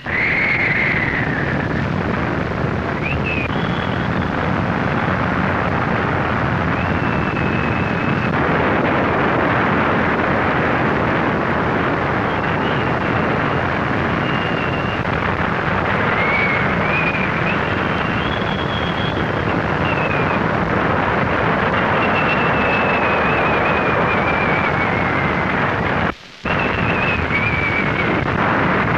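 Gale-force blizzard wind blowing: a dense, rushing noise with a thin whistle above it that wavers up and down in pitch. The sound cuts out for a moment near the end.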